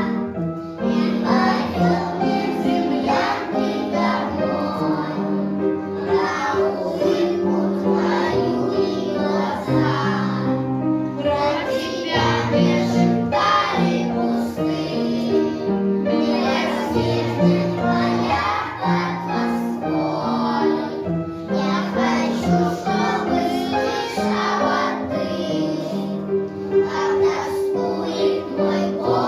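A song: voices singing a melody over instrumental accompaniment with held bass notes.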